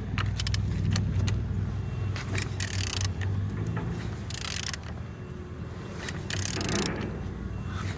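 Engine crankshaft being turned over by hand with a wrench, showing the engine turns freely. There are quick runs of ratchet-like clicks and three hissing bursts about two seconds apart as it rotates, over a steady low hum.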